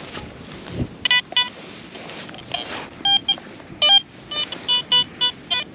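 Garrett Vortex VX9 metal detector giving a string of short target beeps as the coil is swept back and forth over a buried metal target. There are about a dozen beeps, most at the same pitch and a few lower.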